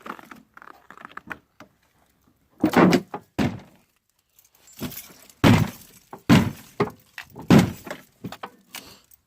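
A series of about six heavy metallic thunks and knocks on an old Chevy pickup's steel door and body, each with a short ringing tail.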